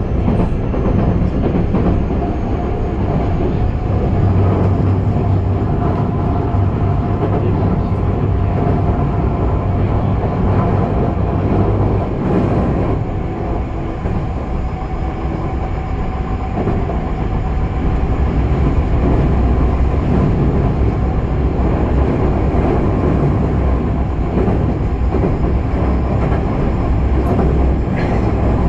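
Kobe Municipal Subway 6000 series train heard from inside the passenger car while running: a steady low rolling rumble of wheels on rail, with a faint steady whine from the running gear and an occasional brief click.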